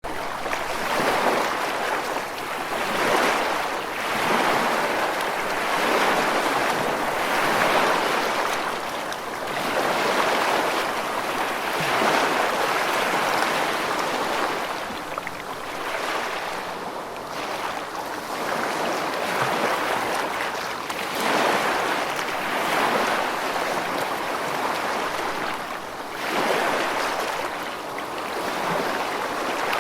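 Sea waves breaking and washing in: a continuous rush of surf that swells and ebbs every two seconds or so.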